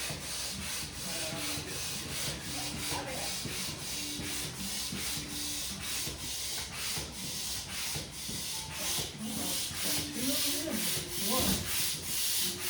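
Hand air pump inflating an inflatable, a hiss of air surging with each stroke at about two to three strokes a second.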